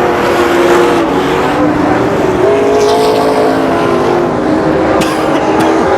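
Several racing trucks' engines running hard, their overlapping notes shifting in pitch as they go by. Two brief clicks about five seconds in.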